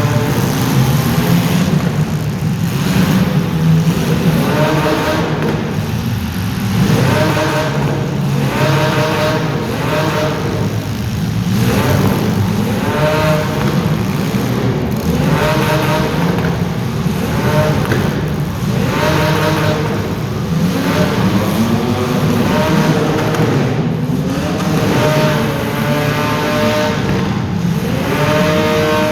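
Engines of several compact race cars running hard, each rising in pitch and backing off every one to two seconds as they accelerate and lift, with the engines overlapping.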